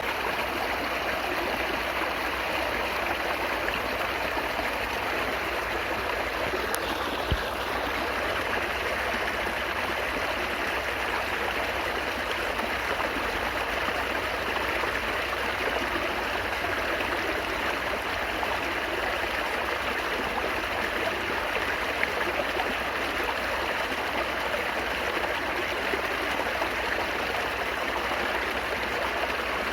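Babbling stream water flowing steadily, an even rushing and gurgling. A single brief click sounds about seven seconds in.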